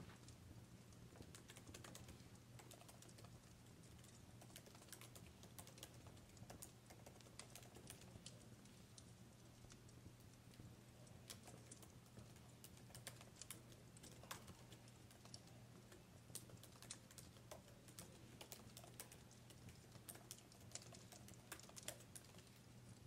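Faint, irregular sharp clicks and crackles, scattered unevenly throughout, over a low steady hum.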